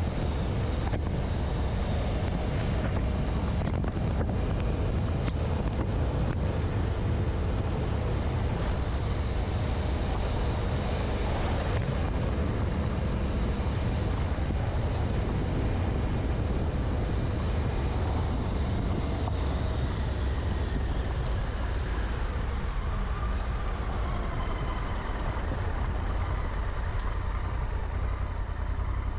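Honda Africa Twin's parallel-twin engine running as the motorcycle rides along a gravel forest track, with wind noise on the microphone. The engine note rises and falls a little in the last third.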